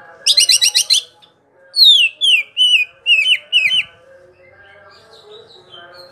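Green leafbird (cucak ijo) singing: a fast run of about seven clear, ringing notes, then after a brief pause a string of six or seven loud whistles, each sliding downward.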